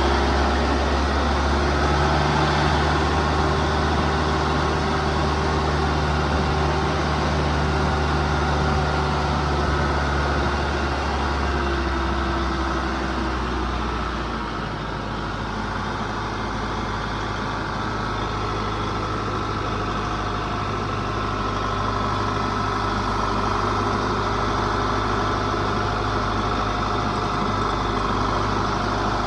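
Vehicle engine running steadily, its low note dropping to a lower, steadier drone about halfway through.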